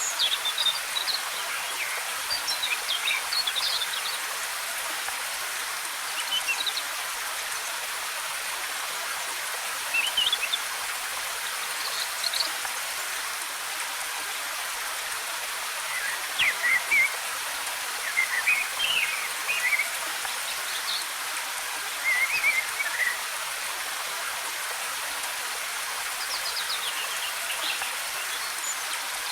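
Steady rushing of a waterfall, with small songbirds chirping in short, scattered phrases throughout.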